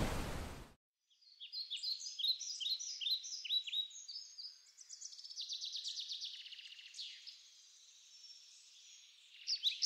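Small songbirds chirping: a run of quick falling chirps, then a fast trill, going quiet for a moment before more chirps near the end. Under a second in, a loud rushing noise cuts off.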